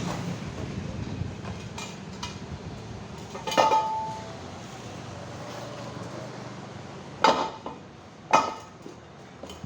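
Metal tools clanking against metal three times during motorcycle tyre work. The first strike rings briefly, over a low steady background hum.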